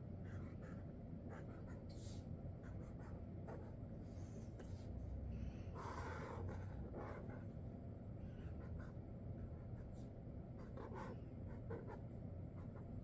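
Sharpie Creative Marker tips drawing on paper: short, faint, scratchy strokes with small pauses between them, over a low steady hum.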